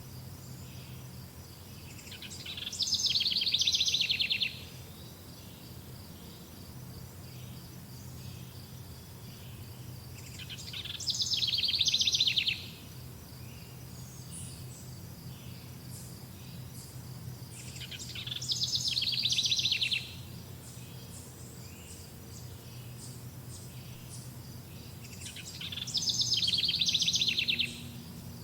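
A songbird singing the same rapid, trilled phrase four times, about every eight seconds. Each phrase lasts about two seconds, grows louder and stops abruptly. Steady insect trilling runs underneath.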